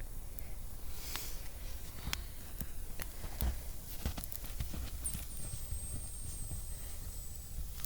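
Wood campfire burning and crackling, with irregular sharp pops and snaps.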